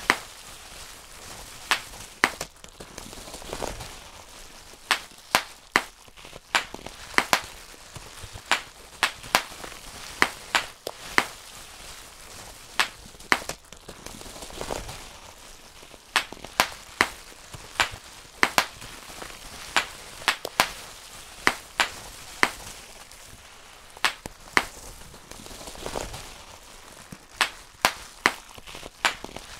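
Bubble wrap being popped by hand: sharp single pops, roughly one or two a second at an uneven pace, over a soft crinkling of the plastic sheet.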